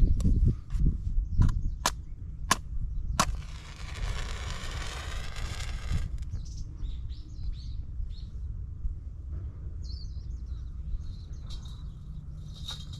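A few heavy knocks, then four sharp cracks about half a second apart and a brief hiss, with birds chirping faintly later on.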